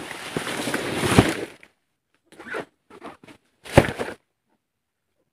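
Banana trunk being cut and torn from its clump: a long tearing rustle that ends in a thud about a second in, then a few shorter rips and another heavy thud near four seconds.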